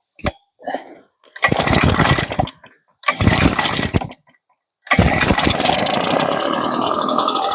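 Gas backpack leaf blower, likely a Husqvarna, being pull-started after priming: two pulls that turn the engine over without it catching, then on the third pull the engine starts and keeps running steadily.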